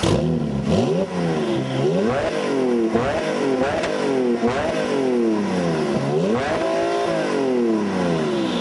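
Porsche 997 Turbo's twin-turbo flat-six engine revving repeatedly, its pitch climbing and falling about six times.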